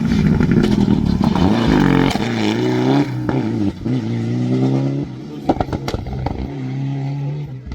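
Rally car engine at high revs close by, the pitch rising and dropping through gear changes, then settling to a steadier note that fades as the car pulls away. A few sharp pops are heard just past the middle.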